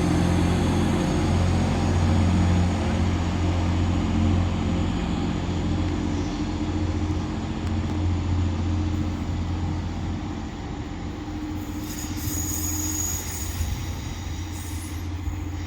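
TransPennine Express Class 185 diesel multiple unit pulling away, its Cummins diesel engine running with a steady low throb that slowly fades in the last few seconds as the train draws off. A brief high wheel squeal comes near the end.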